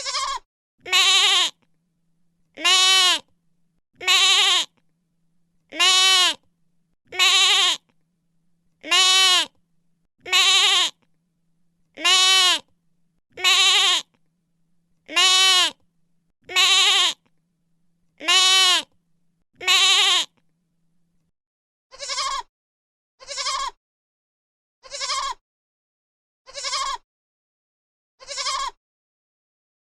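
An animal bleating over and over: about a dozen loud, wavering calls, each about half a second long and spaced roughly a second and a half apart. After a short gap about two-thirds of the way in, fainter bleats follow at the same pace.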